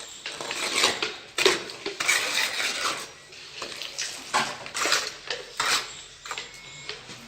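Metal trowel scraping and clinking in a string of irregular strokes, as a tile mason works.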